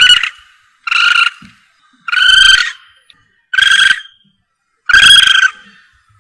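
Civet lure call: a harsh, buzzy call repeated five times, about one every 1.3 seconds, of the kind played to draw civets in when hunting at night.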